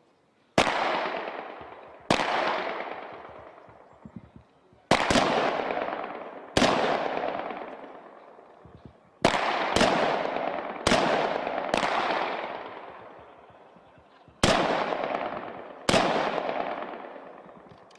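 Single rifle shots from HK G36 assault rifles (5.56 mm), about ten in all, fired one at a time with gaps of one to three seconds, each shot followed by a long echoing decay.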